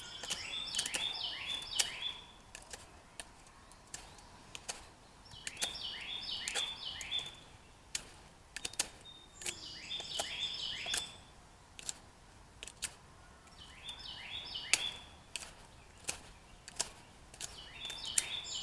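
Sharp clicks and scrapes of a knife whittling a wooden stick to a point. A songbird sings a short phrase of stepped notes about every four seconds.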